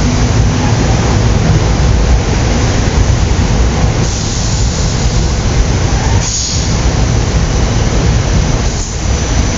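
SEPTA Silverliner electric commuter train passing close by: a loud, steady rumble of steel wheels on the rails and the cars' running gear, with a short high hiss about six seconds in.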